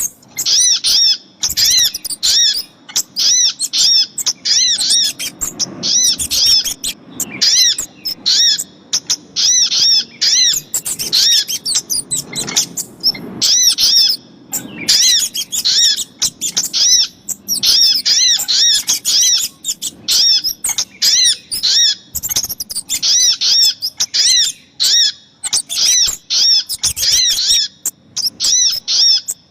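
Bird-lure recording of little spiderhunter (sogok ontong) calls mixed with kemade calls: dense runs of short, high, arched chirps, several a second, broken by brief pauses.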